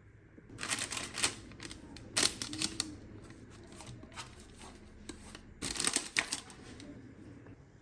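Rustling and clicking of objects being handled, in three short bursts about half a second, two seconds and five and a half seconds in.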